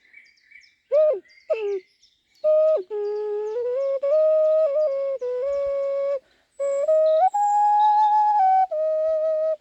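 Ocarina tuned to a G# minor pentatonic scale, played as a slow melody: after a short pause, two short notes that slide downward, then held notes that step up and down, with a brief break a little past six seconds.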